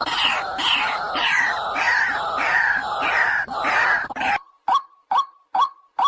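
White-breasted waterhen calling: a series of falling notes about twice a second, then an abrupt change about four seconds in to short, evenly spaced single notes, a little over two a second, the monotonous call used as a trapping lure.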